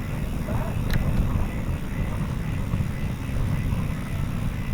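Wind buffeting the microphone of a camera on a moving bicycle: a steady low rumble that flickers in strength. There is one sharp click about a second in.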